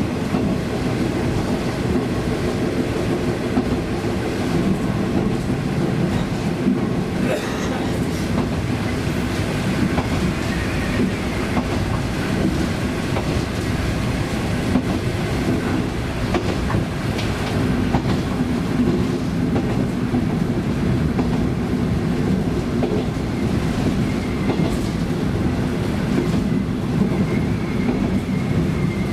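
KiHa 20 diesel railcar under way, its DMH17C diesel engine running steadily while the wheels clack over rail joints with scattered sharp clicks.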